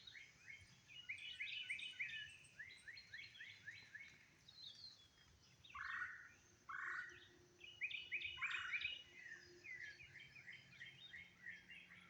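Faint birdsong from several birds: quick runs of short, high chirps, with a few lower calls sliding downward about six, seven and eight and a half seconds in.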